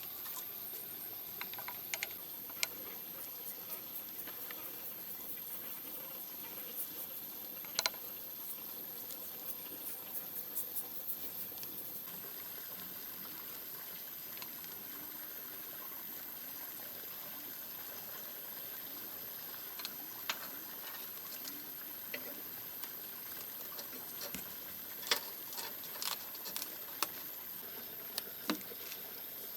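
Food cooking: a steady low hiss with scattered light clicks and taps, most of them near the end.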